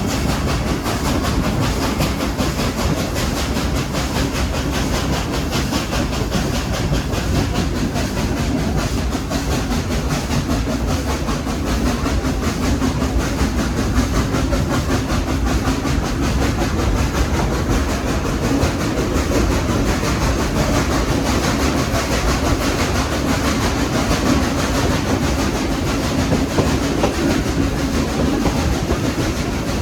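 Steady running noise of a passenger train riding behind a Baldwin steam locomotive: wheels on the rails and the locomotive working, loud and unbroken.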